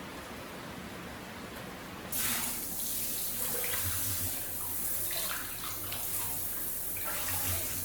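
Water running from a tap, turned on about two seconds in and running steadily.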